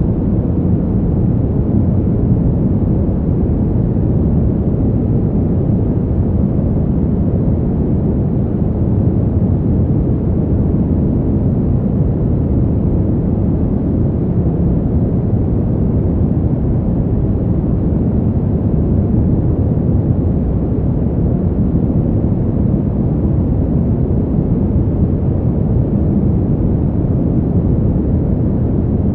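Steady, deep rushing wind noise used as winter white noise for sleep. It stays even, with no gusts or sudden sounds.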